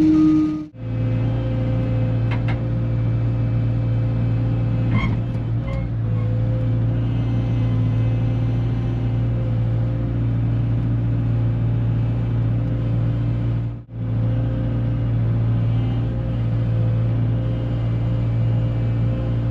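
A vehicle engine running steadily with a low, even hum. The sound cuts out briefly near the start and again about two-thirds of the way through.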